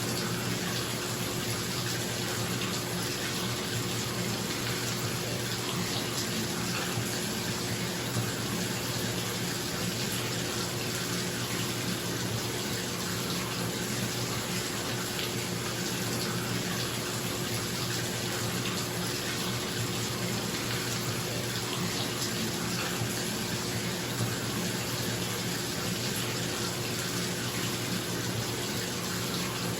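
Bathtub faucet running into the tub, a steady rush of water, with a bathroom exhaust fan humming steadily underneath.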